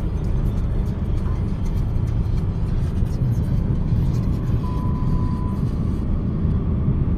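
Steady low road and engine rumble of a moving car, heard from inside. A faint short beep sounds about two-thirds of the way through.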